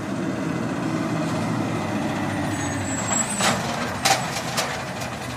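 Garbage truck engine running steadily, with a brief high whistle about halfway through and a few sharp metallic clanks in the second half.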